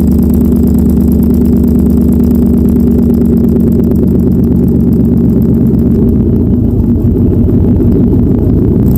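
1998 Ford F-150's 5.4 L Triton V8 running through a newly fitted exhaust, a loud, steady deep drone. Its tone shifts about six seconds in.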